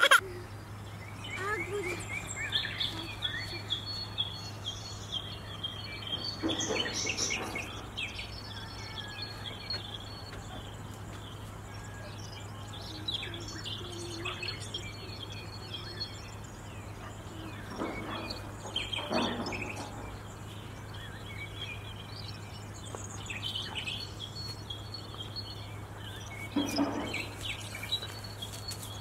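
Small birds chirping and calling again and again over a steady low hum, with a few brief louder noises now and then.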